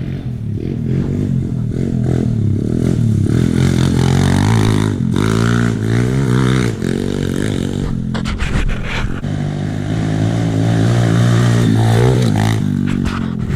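Pit bike engine being ridden, its pitch rising and falling repeatedly with the throttle, then holding steadier for a few seconds. A few sharp knocks or rattles come in around the middle.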